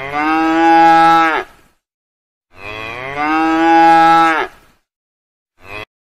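A cow mooing: two long moos about two and a half seconds apart, each swelling into a louder held call that drops away at the end. A short start of a third moo comes near the end and is cut off.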